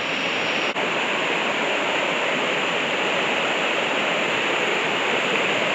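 Creek water rushing steadily, an even unbroken noise.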